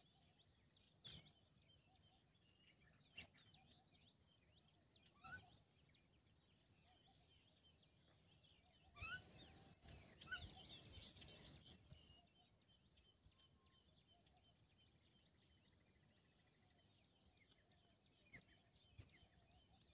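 Birds chirping now and then, with a dense run of rapid, high calls lasting about three seconds in the middle.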